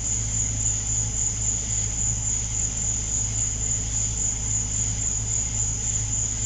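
A steady night chorus of insects: a continuous high-pitched trill that never pauses. Under it runs a steady low hum.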